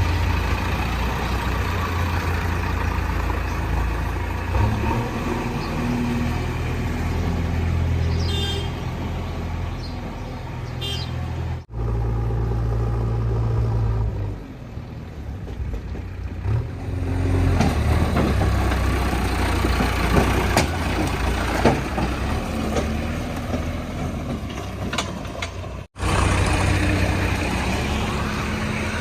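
JCB 3DX backhoe loader's diesel engine running under working load while digging, its speed rising and falling, with some metallic knocks from the bucket and arm. The sound drops out for an instant twice.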